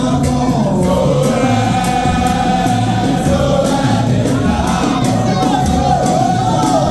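Music: a group of voices singing together in chorus over percussion keeping a steady beat.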